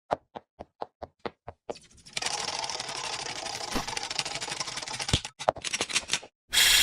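A run of short clicks, about four a second, then a fast, steady mechanical rattle for about four seconds, then a short hissing burst near the end.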